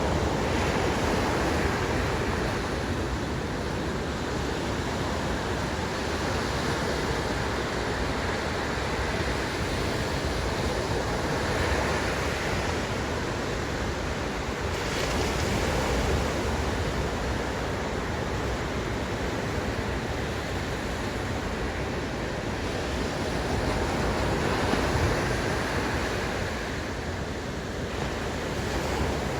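Ocean surf breaking on the beach: a steady rush of white water that swells louder every few seconds as sets of waves break.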